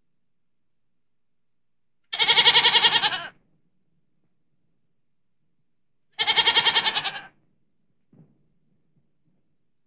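Domestic goat bleating twice, each call about a second long with a quavering tremble, about four seconds apart.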